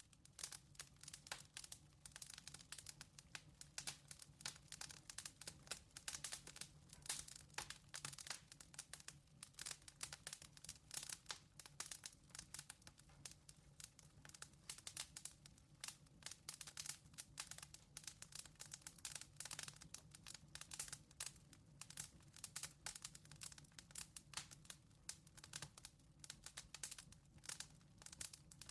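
Firewood burning in a fireplace firebox, faintly crackling with many irregular small pops and ticks, over a faint steady low hum.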